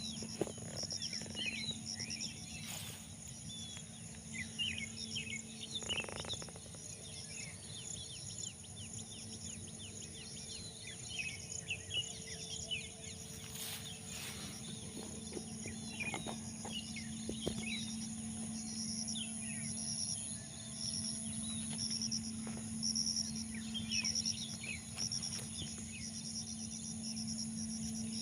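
A morning outdoor chorus of many small birds chirping and twittering in quick short calls, over a steady high insect drone with a pulsing insect trill. A steady low hum runs underneath.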